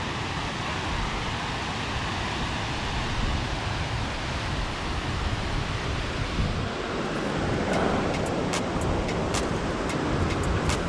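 Steady rushing of a waterfall, an even roar of falling water. In the second half a run of short, sharp ticks and crackles sits on top of it.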